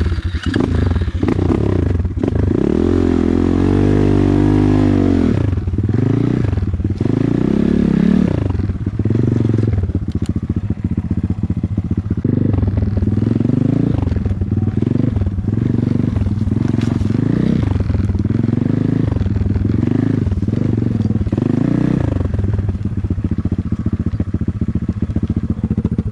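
Off-road motor vehicle engine running and revved hard over and over: one long rise and fall in the first few seconds, then repeated rev swells about once a second.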